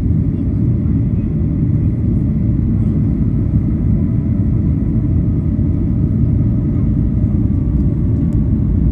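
Steady low rumble inside the cabin of a Boeing 737 in flight on approach, from airflow over the fuselage and the jet engines, with a faint steady hum above it.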